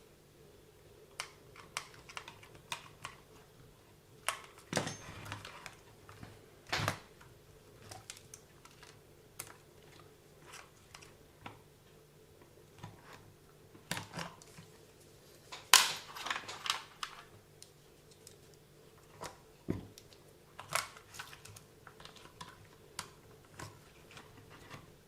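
Irregular light clicks and taps of small parts of the WLtoys 144001 RC car's drivetrain being handled and moved by hand, the sharpest one about two thirds of the way through, over a faint steady hum.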